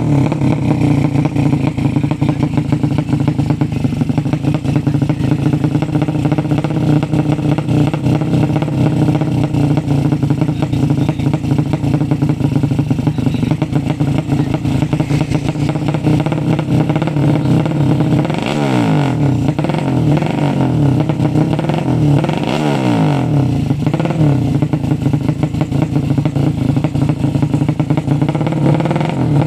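A tuned 200 cc racing motorcycle engine idling fast and steadily, blipped up in revs twice in quick succession about two-thirds of the way through.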